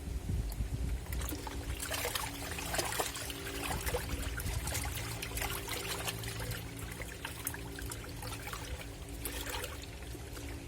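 Water pouring and trickling off the lint filter as it is lifted out of a Black&Decker washing machine, over a steady low hum.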